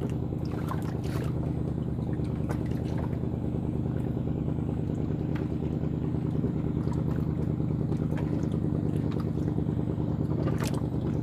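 A small engine running steadily at an even pitch, with scattered light clicks.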